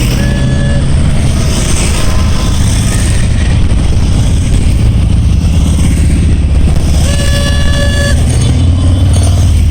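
Motorcycles riding past in a steady stream, their engines running loud, with a vehicle horn tooting twice: briefly just after the start and for about a second near the end.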